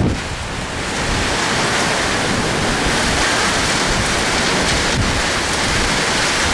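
Heavy rain pouring down in a steady, loud hiss, with wind buffeting the microphone in low rumbles.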